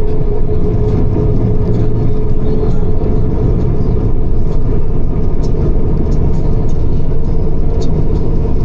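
Loud, steady engine and road rumble of a moving bus, with a faint steady whine over it.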